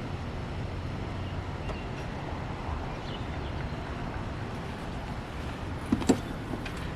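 Steady low rumble of background noise, with two sharp clicks close together about six seconds in.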